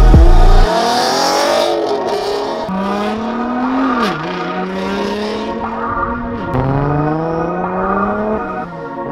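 A car engine accelerating hard through the gears. Its pitch climbs steadily and drops sharply at each upshift, about 4 s in, at about 6.5 s, and again near the end.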